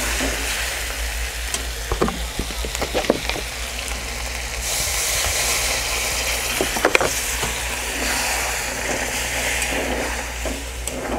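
Chicken frying in masala in a pan on a gas burner, sizzling steadily while a metal spoon stirs and knocks against the pan a few times. About five seconds in, the sizzle turns louder and hissier as water is poured into the hot pan.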